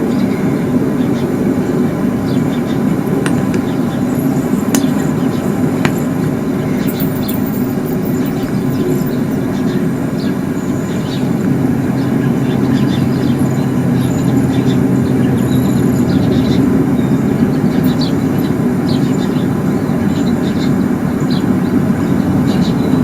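Steady, loud low rumble with a droning hum, rising slightly about halfway through, from an amateur recording of the so-called 'strange sounds' heard in the sky. Faint scattered ticks sit above it.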